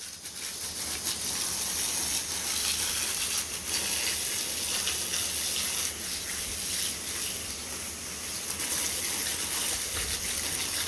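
Garden hose spraying a steady stream of water onto a muddy dog's coat.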